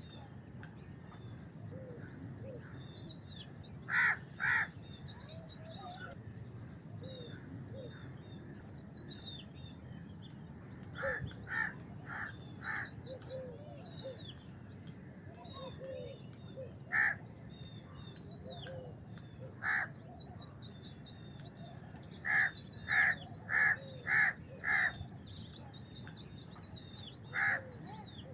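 House crows cawing in short, harsh calls, some single and some in quick runs of up to five. Dense high-pitched chirping from other birds and a steady low background hum run underneath.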